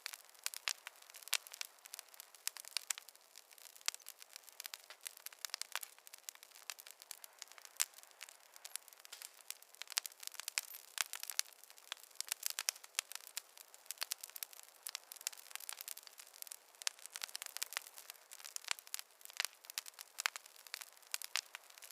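Fireplace fire crackling: a dense, irregular run of sharp snaps and pops over a soft hiss, with no low roar.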